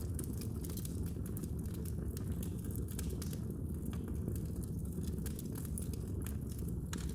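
Wood fire burning in a fireplace: irregular small crackles and pops from the burning wood over a steady low rumble of the flames.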